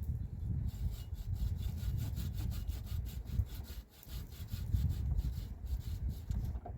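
Rhythmic back-and-forth scraping strokes, about six a second, pausing briefly about four seconds in, over a steady low rumble.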